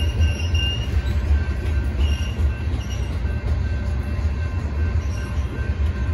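Freight train of covered hopper cars rolling past with a steady, heavy low rumble. Brief high wheel squeals come near the start and again about two seconds in.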